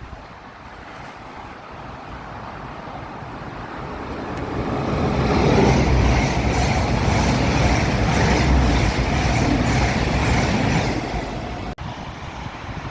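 A train passing through the station, building up to a loud rush of wheels on rail with a quick, even clatter, then dropping back near the end.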